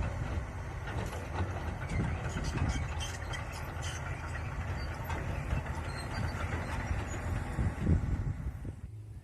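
Komatsu PC200 excavator's diesel engine running, with scattered metallic clicks and clanks over the first few seconds. The sound drops away sharply just before the end.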